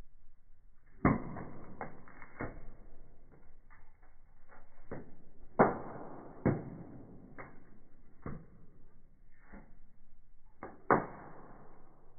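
Firewood burning in a fireplace, crackling with irregular sharp pops every second or so. The loudest pops come about five and a half seconds in and near the end.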